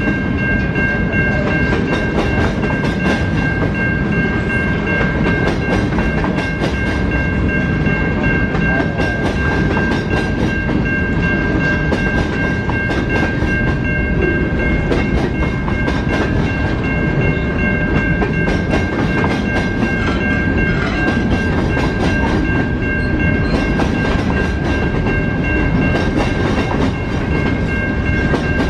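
A train rolling past, its cars' wheels clattering over the rails in a steady run of clicks and rumble, with a steady high ringing tone held over it the whole time.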